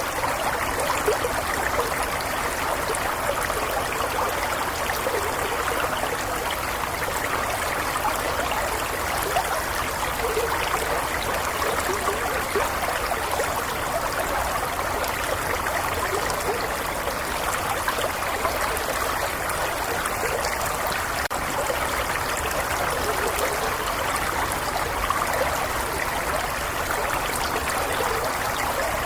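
Small stream flowing and trickling steadily over stones, a continuous even splashing with fine bubbling flickers.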